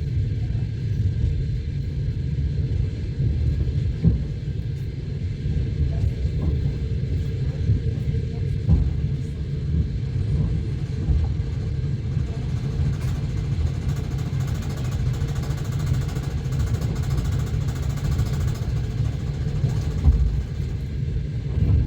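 Passenger train running, heard from inside the carriage: a steady low rumble of wheels on rails, with a few separate knocks as the wheels cross rail joints.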